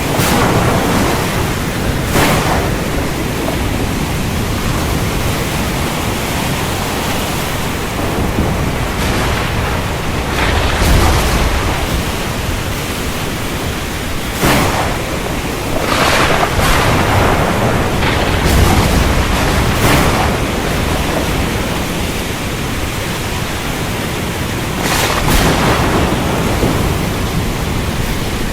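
Steady rain with a thunderstorm: repeated sharp cracks of thunder, several of them a few seconds apart, and deep rolling rumbles in between.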